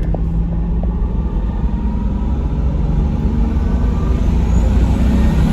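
Twin-turbo Toyota Supra's 2JZ-GTE inline-six pulling under part throttle, heard from inside the cabin over road rumble, growing louder toward the end.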